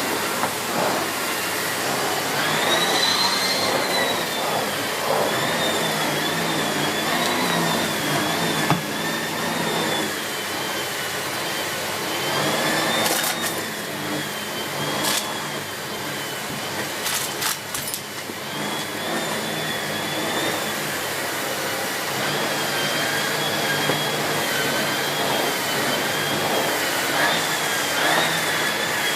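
Miele C2 Compact / S6 Cat and Dog cylinder vacuum cleaner with its 2000 W motor running steadily, a high whine wavering in pitch as the floorhead is pushed back and forth. A few sharp clicks partway through.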